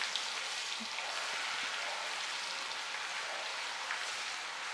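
Garlic paste sizzling in hot refined oil in an iron kadhai as it is stirred with a flat spatula: a steady frying hiss.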